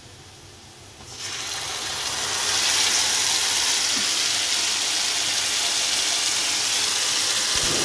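Wet ground ridge gourd paste going into hot oil in a kadai and sizzling. The sizzle starts about a second in, grows over the next two seconds, then holds steady and loud.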